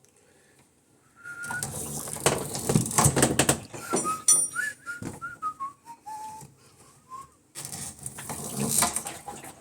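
A person whistling a few short notes of a falling tune, with rustling and clattering from something being handled before and after.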